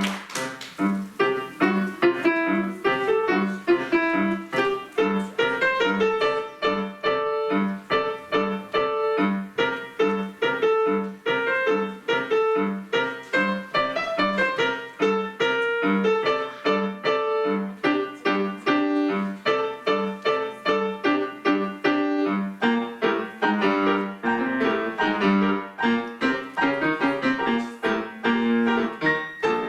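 Acoustic piano played four hands as a duet: a march with a steady, evenly repeated bass note and a bright melody moving above it.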